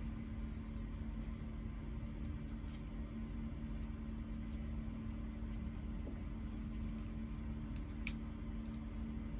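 A steady low hum with faint small clicks and taps near the end, as of small parts being handled.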